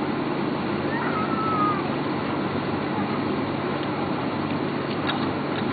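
Steady drone and low hum in the cabin of a Boeing 777-300 during pushback, with a brief faint gliding squeak about a second in and a few light ticks near the end.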